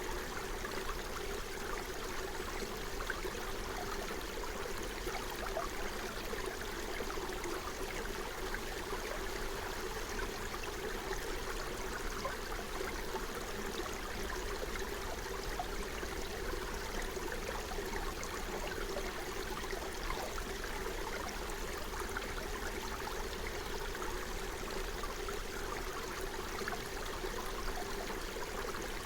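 Forest stream flowing steadily, water running and gurgling over stones.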